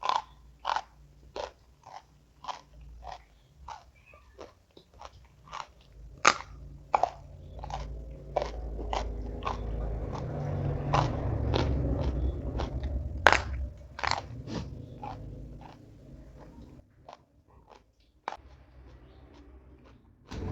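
Close-miked chewing of crunchy food, a regular series of crisp crunches about one to two a second. A low rumble swells in the middle and fades out later.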